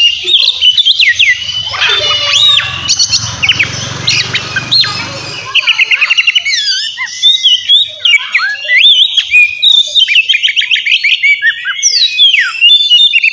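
Oriental magpie-robin (kacer) singing a loud, varied, unbroken song of clear whistles, rapid rattling trills and sweeping notes, with a long falling whistle near the end. A low hum runs underneath for the first few seconds.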